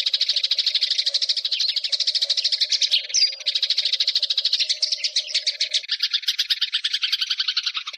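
Eurasian tree sparrows chirping: a rapid, unbroken run of short, high chirps.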